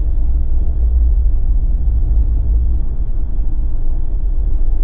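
Steady low rumble of a Jeep driving on snow tires: engine and tyre noise.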